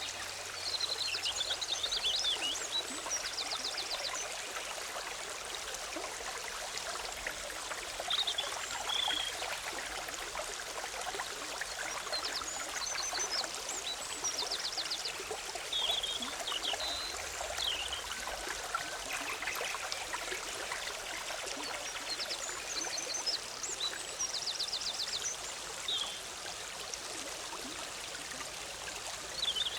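Forest stream babbling over rocks with a steady rushing sound. A small songbird sings short high phrases, each ending in a rapid trill, in three bouts about ten seconds apart.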